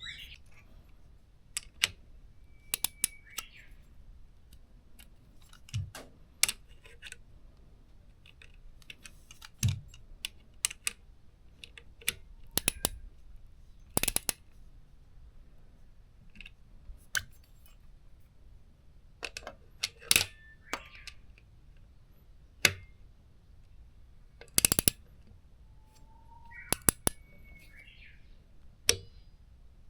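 Scattered sharp metallic clicks and clinks of hand tools and small parts being picked up and set down, at uneven intervals, with a few short high chirps among them.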